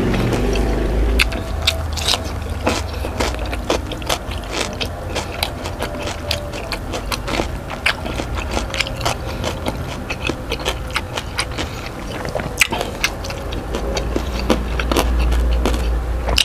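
Close-miked chewing of rice, laing and crispy pork with many short wet mouth clicks and smacks, and the hand scraping food together on the wooden tray.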